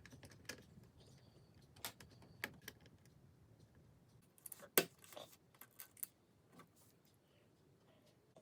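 Plastic LEGO bricks clicking and rattling as they are handled and snapped together: scattered sharp clicks, the loudest a little under five seconds in.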